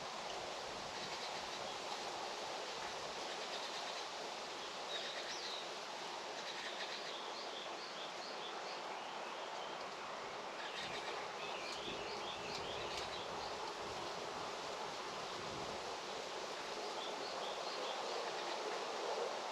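Outdoor rural ambience: a steady rushing hiss, with small birds chirping in short clusters of quick high notes a few times through it.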